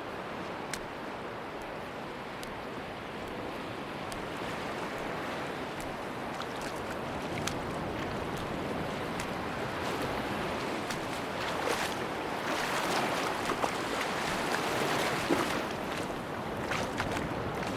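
Sea waves washing onto a beach: a steady rushing surf that swells about halfway through as a wave comes in, then eases, with scattered faint ticks and crackles through it.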